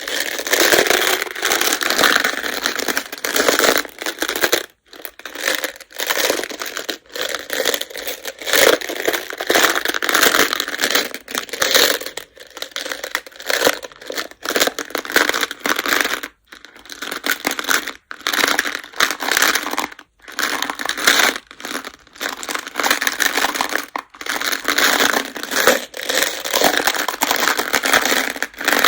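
Go (baduk) stones clattering against each other as they are handled, a dense rattle broken by short pauses every few seconds.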